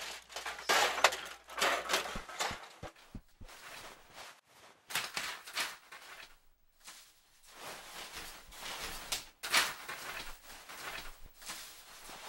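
Irregular rustling and scuffing with a few soft knocks near the start, the sound of papers being handled and gathered off a carpeted floor.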